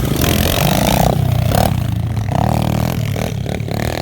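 Pit bike engine revving hard in several bursts, the throttle opened and shut repeatedly: a long pull near the start, another about two and a half seconds in, then quick short blips.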